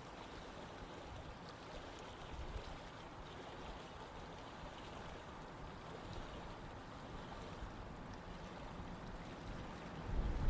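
Water of a stream running steadily, an even rushing wash. A low rumble swells in right at the end.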